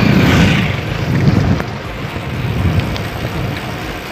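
Wind rushing and buffeting over the microphone of a mountain bike rider coasting downhill: a loud, uneven low rumble that surges and eases.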